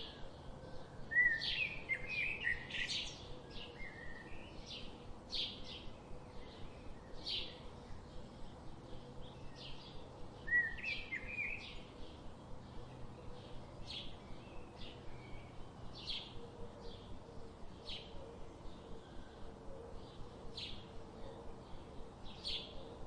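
Birds chirping: short high chirps repeat about once a second, with two busier flurries of calls, about a second in and again around ten seconds in, over a faint steady background hum.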